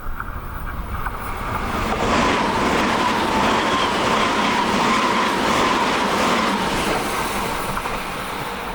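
Tobu 100 series Spacia limited express electric train passing, the noise building over the first two seconds, loudest in the middle and easing toward the end, with a faint steady whine through the loudest part.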